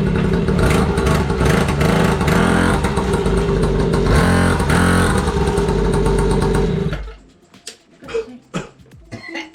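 Small petrol engine of a child's motorbike running, the revs rising and falling a couple of times, then switched off suddenly about seven seconds in.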